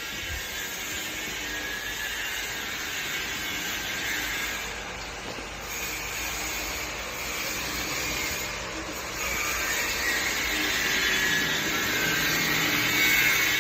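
LiuGong CSH1100A-25D portable diesel air compressor running steadily, getting louder about two-thirds of the way through.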